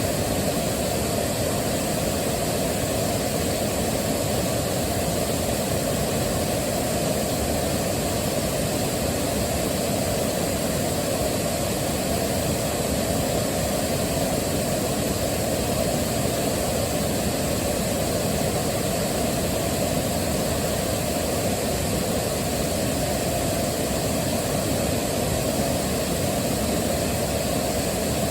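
Waterfall: a steady, unbroken rush of falling water, with most of its weight in the low and middle range.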